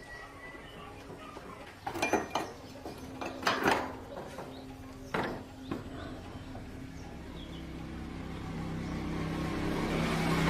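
A few sharp knocks, then a small motorcycle engine running, getting steadily louder over the last few seconds.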